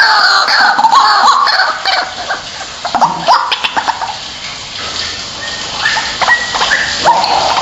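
White-breasted waterhen (ruak-ruak) calling: a quick run of repeated pitched call notes in the first second and a half, then scattered shorter calls and clicks, and more calls again near the end.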